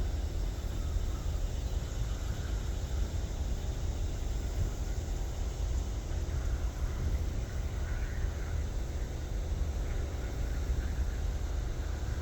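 Steady low rumble of wind buffeting the microphone, with no clear pitched sound over it.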